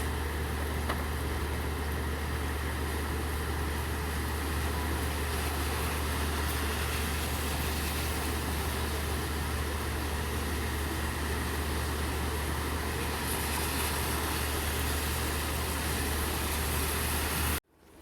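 Large idling engine, likely a delivery truck, running with a steady low hum under the even hiss of steady rain. Everything cuts off abruptly near the end.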